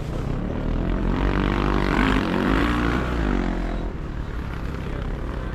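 Motocross motorcycle engines racing past, revving up and down in pitch, loudest about two seconds in.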